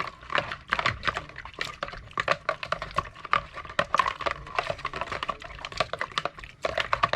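A brush scrubbing a soapy iPhone 8 logic board: a fast, irregular run of small scratchy clicks as the bristles go back and forth over the wet circuit board.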